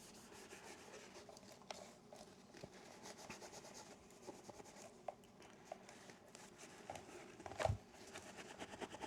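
Faint rubbing of a paper towel wiping a camera body, with light clicks of handling and a brief soft knock about three quarters of the way through.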